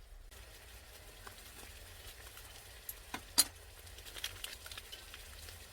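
Beef intestines and onions sizzling and crackling in a frying pan, with small pops of fat. Two sharp clicks a little past halfway.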